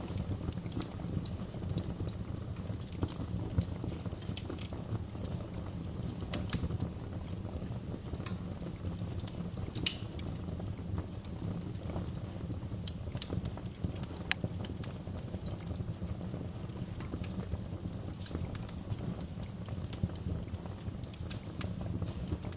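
Wood fire in a fireplace crackling, with irregular sharp pops over a steady low rumble of flames.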